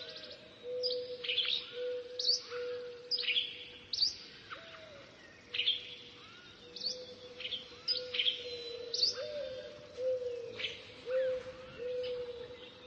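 Birds chirping: short, sharp high chirps about once a second, over a steady low tone.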